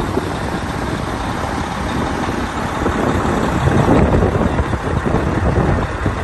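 Cat 740 articulated haul truck's diesel engine idling, with wind buffeting the microphone.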